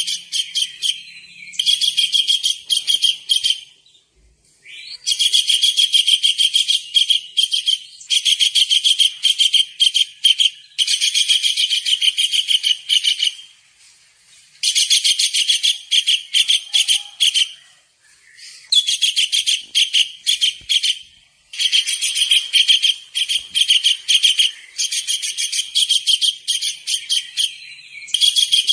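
Kingfisher (tengkek udang) calling: rapid, high-pitched chattering trills in bursts of one to three seconds, one after another with short breaks.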